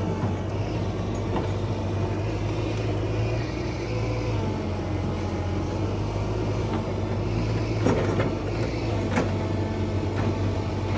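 Heavy earthmoving machine's diesel engine running steadily at a constant speed, with two short knocks about eight seconds in and again a second later.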